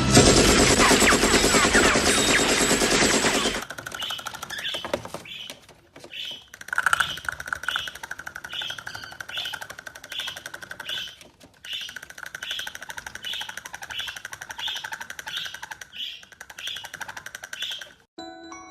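Loud music cuts off about three and a half seconds in. A bird then calls a short note over and over, about twice a second, above a faint steady tone, until just before the end.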